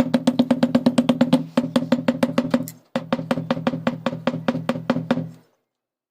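Rapid tapping with the base of a glass all around a new ball bearing to drive it into a ceiling fan's motor housing: ringing taps at about seven a second, in three runs with short pauses, stopping about a second before the end.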